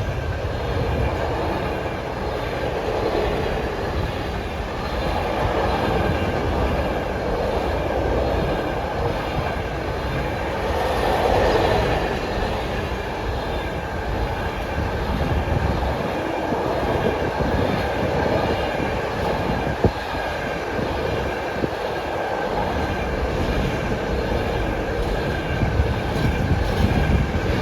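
Long freight train passing over a level crossing: a continuous rumble of wagons, with wheels clicking over the rail joints.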